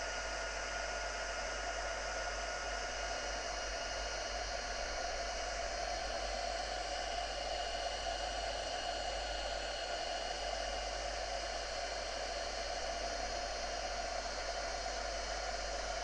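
Embossing heat gun blowing steadily, a hair-dryer-like rush of air with a faint steady whine over it, melting embossing powder until it bubbles.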